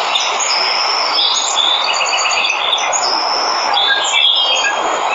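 Waterfall rushing steadily, with jungle birds chirping over it in short high whistles and a quick trill of repeated notes.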